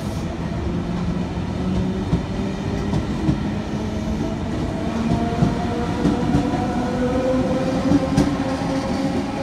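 A stainless-steel double-deck electric suburban train running past along the platform: a steady rumble of wheels on rails, with a motor whine that climbs slowly in pitch through the second half and a few light clicks from the wheels.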